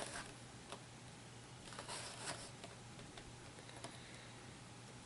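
Quiet room tone with a few faint clicks and light rustles from handling a figure and its packaging, a small cluster about two seconds in.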